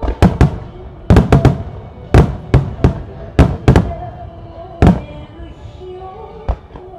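Starmine fireworks display: about a dozen sharp shell bursts in quick succession, several coming in rapid pairs and triples, the last one alone near the end, with music playing in the background.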